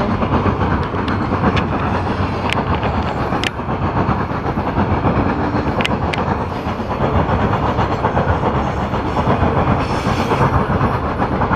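Loaded coal hopper cars of a freight train rolling past close by: a steady, loud rumble of steel wheels on the rails, with a handful of sharp clicks in the first six seconds or so.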